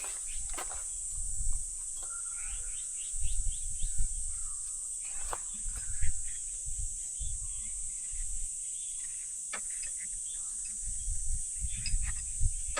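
Steady high-pitched chorus of crickets, with scattered sharp ticks and irregular low rumbling bumps.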